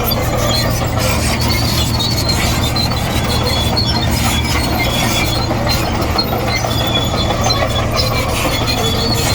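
Komatsu D58E bulldozer running steadily under load as it works soil, its diesel engine a constant drone with short, repeated high-pitched squeals from the steel tracks.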